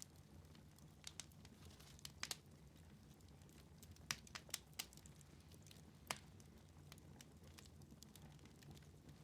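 Wood fire in a fireplace crackling: scattered sharp pops, a pair about a second in, another pair a little past two seconds, a cluster around four to five seconds and a single pop near six seconds, over a faint low rumble of the burning fire.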